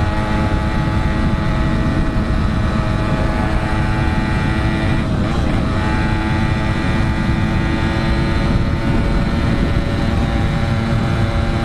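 Yamaha RX-King's 135 cc two-stroke single-cylinder engine running at a steady cruising speed while riding, its pitch holding level with no revving.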